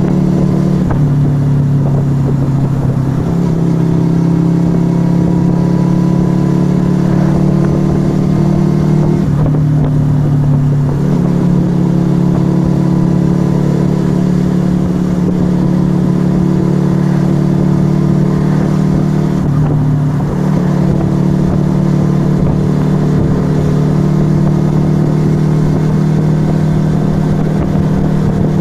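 Yamaha XV125 Virago's small air-cooled V-twin running through a Turbo Kit aftermarket exhaust while riding at a steady pace. Its revs drop and climb back about three times, as when the throttle is eased and reopened or a gear is changed.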